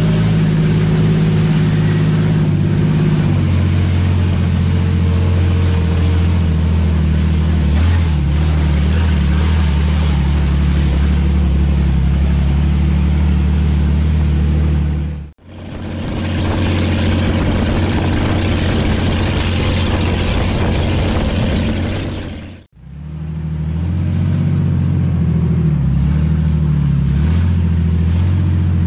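Engine of an off-road 4x4 running steadily at low speed along a muddy track, a continuous low drone. The sound drops out sharply twice, about halfway through and again some seven seconds later.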